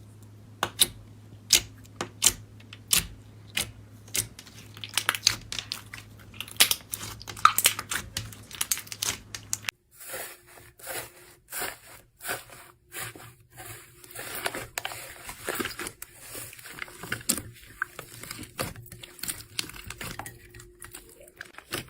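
Slime being handled, giving a run of sharp crackling pops. After a cut about ten seconds in, it turns to denser crinkly, crunchy crackling.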